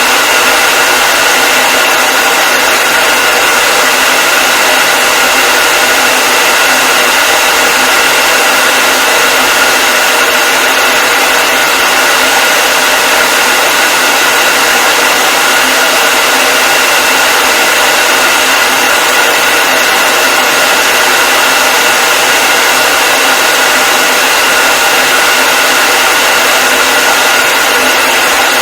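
Hair dryer running steadily: a continuous loud rush of air with a steady whine from its motor and fan.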